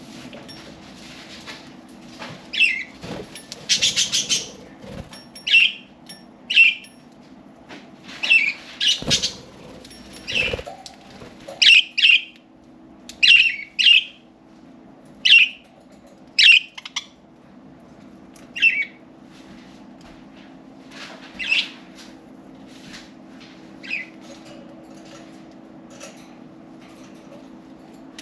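Pet budgerigars chirping, with short sharp calls every second or two, and a flurry of wing flaps about four seconds in. Two low thumps come near the middle.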